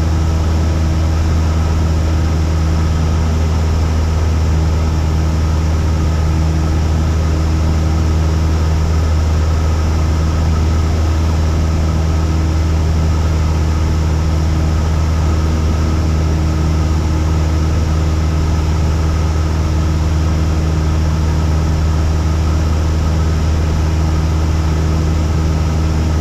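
Cessna 172's piston engine and propeller droning steadily in flight, heard inside the cabin: a constant low hum with no change in power.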